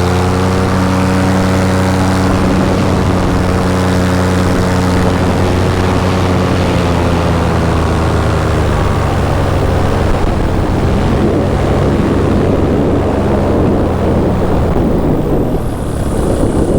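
Paramotor engine and propeller running steadily in flight, with the pitch sagging a little past the middle. In the last few seconds it gives way to rushing wind noise.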